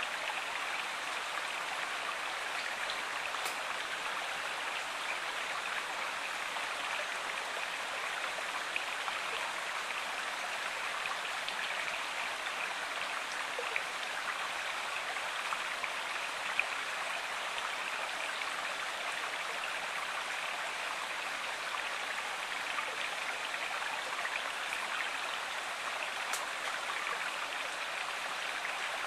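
Running water of a stream, a steady, even rush with a couple of faint clicks.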